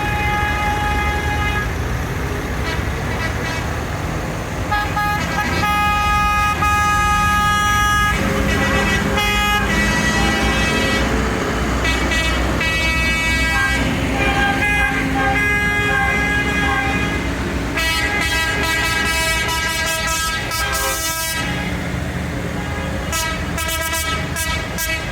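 Tractor engines running, with horns sounding again and again in long held blasts, some of them overlapping.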